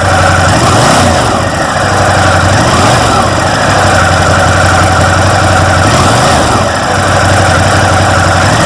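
Ducati Monster 1200S's 1198 cc Testastretta L-twin running steadily at low revs, close and loud, with slight rises and falls in pitch.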